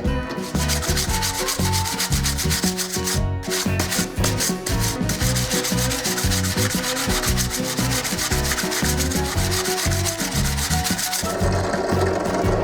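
Wood being sanded by hand, fast rhythmic back-and-forth rubbing strokes of abrasive on a board, which stop about eleven seconds in.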